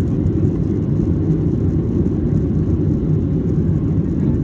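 Airplane noise heard from inside the cabin: a loud, steady low drone of engines and rushing air, without rises or breaks.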